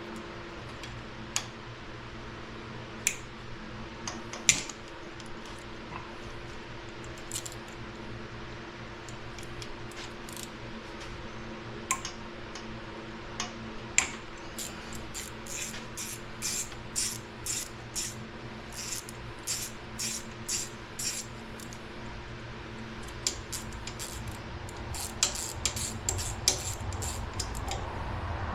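Ratchet with a Torx bit backing out the camshaft retainer (thrust plate) bolts on a Chevy 350 block: scattered metal clicks and clinks, then runs of ratchet clicks, a few a second, in the second half. A steady low hum runs underneath.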